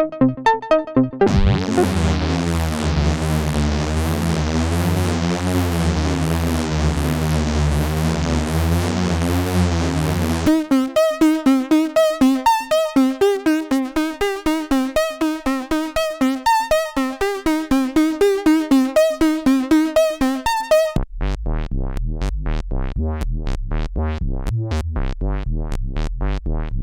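Roland SE-02 analogue monosynth playing factory preset patches from a step sequencer. First comes a sustained low drone with a slowly wavering filter sweep. About ten seconds in it changes to a staccato melodic sequence of short notes, about four a second, and near the end to a low buzzy bass pattern with quick pulses.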